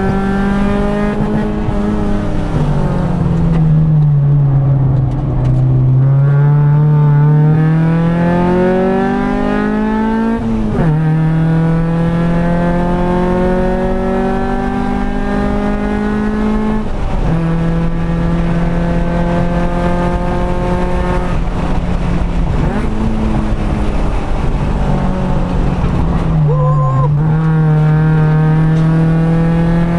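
Honda B20V four-cylinder engine (B20 block with a VTEC head), heard from inside the cabin, pulling hard under load. Revs sag and pick up again early on, then climb steadily and drop sharply at upshifts about eleven, seventeen and twenty-seven seconds in.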